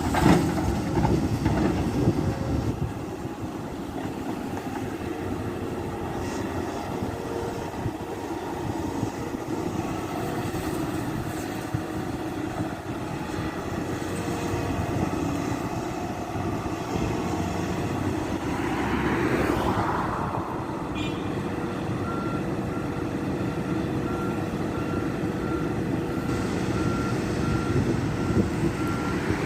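Volvo EC480 excavator's diesel engine working steadily under load, with loud knocks near the start. In the last third a reversing alarm beeps at an even pace.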